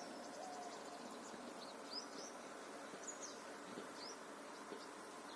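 Faint outdoor ambience of birds chirping: short, high, rising chirps every second or so over a steady hiss.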